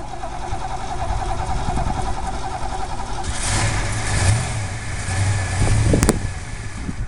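1985 Ford Mustang GT's 5.0-litre V8 running, then revved up about three seconds in and held at higher revs for a few seconds. A sharp click near the end.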